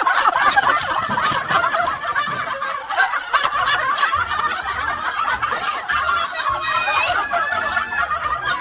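Several people laughing hard together, many overlapping laughs with no break, in reaction to a joke.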